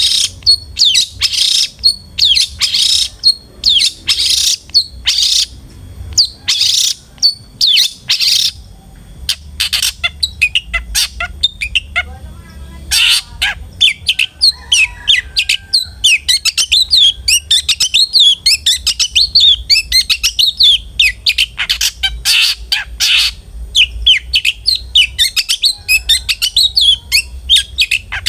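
Long-tailed shrike (cendet) singing in full voice: a string of loud, harsh, rasping calls for the first several seconds, then a long run of quick chattering, twittering notes, with harsh calls returning near the end.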